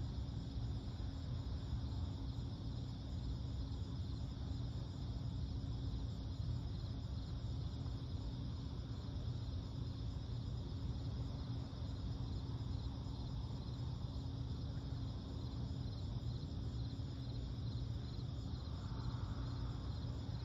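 Crickets chirping steadily in fine, rapidly pulsing high bands, over a steady low rumble of ambient noise. A faint brief call comes in near the end.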